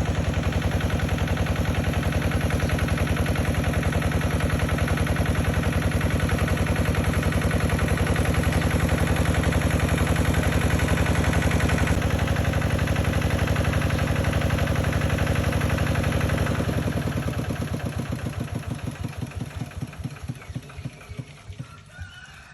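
An engine running steadily with a rapid, even beat. In the last few seconds the beats slow and grow fainter, as if it is being shut off and running down.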